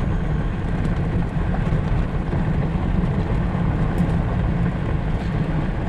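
Vehicle driving at a steady pace, heard from inside the cab: a constant low drone of engine and road noise with no changes.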